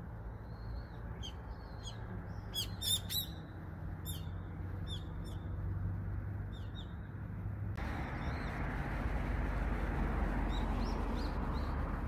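A bird in a persimmon tree calling in a string of short, sharp chirps, loudest about three seconds in, over a steady low background hum. About two-thirds of the way through a louder steady rushing noise comes in, with a few fainter chirps over it.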